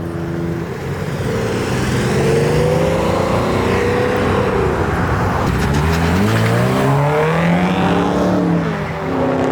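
A car engine revving hard as the car accelerates away: the pitch climbs, drops sharply about four and a half seconds in, then climbs again.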